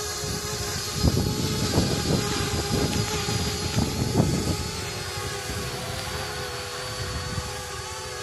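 Parrot Bebop 2 quadcopter drone's propellers and motors giving a steady whine in flight, with gusts of wind buffeting the microphone over the first half.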